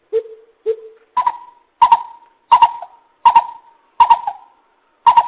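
Greater coucal's lure call: a series of deep hooting notes, one about every 0.7 s. The first two are lower, then the call steps up to a higher, steady pitch. Each note opens with a sharp click.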